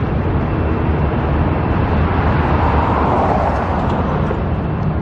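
Road traffic running steadily, with a vehicle passing that swells and fades about two to four seconds in.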